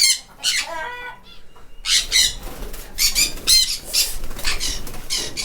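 Flock of caged cockatiels giving repeated shrill squawks, with wings flapping: birds stirred up by a person entering their aviary.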